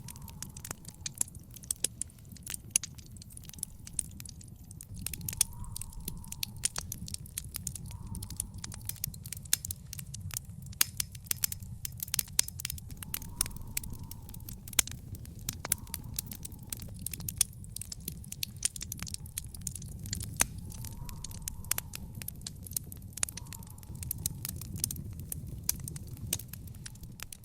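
Wood fire in an outdoor fire pit crackling, with frequent sharp pops and snaps over a low, steady rumble.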